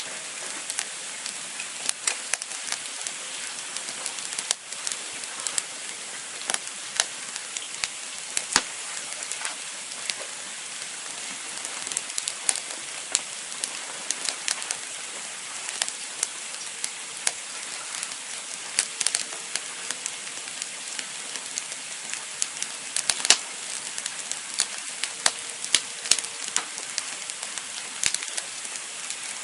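Campfire burning with a steady hiss and frequent sharp, irregular crackles and pops of the burning wood.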